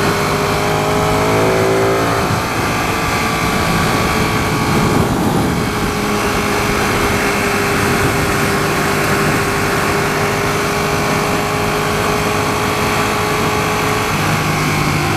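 Ducati 959 Panigale's L-twin engine running at freeway speed over steady wind noise. Its pitch rises briefly in the first couple of seconds, then holds steady.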